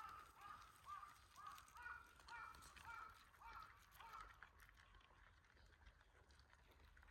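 A bird, faint, calling about nine short calls at about two a second; the series stops about four seconds in.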